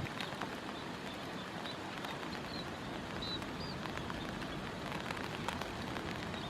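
Munias giving several short, high chirps over a steady background hiss, with a few faint ticks.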